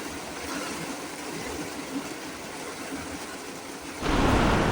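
Steady heavy rain, then about four seconds in a sudden loud rumble of thunder from a nearby lightning strike breaks in and keeps going.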